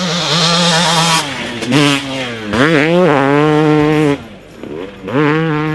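2018 Yamaha YZ250X two-stroke single with a Pro Circuit pipe and silencer, running hard at high revs. The pitch dips and climbs sharply about two and a half seconds in, drops away briefly around four seconds, and picks back up about a second later.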